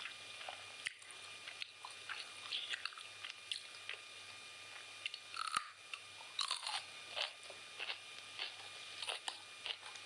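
Close-up chewing and crunching while eating chicken biryani: irregular wet clicks and crackles of bites and mastication, with a sharper snap about halfway through.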